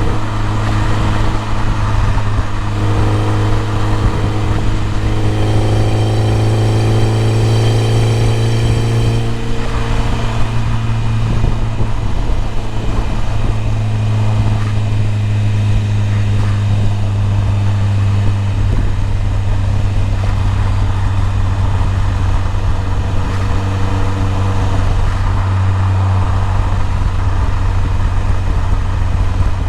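BMW E30 M3's four-cylinder engine pulling under load, its note rising steadily for several seconds before easing off about nine seconds in, then running on at a steady pitch over a constant low drone.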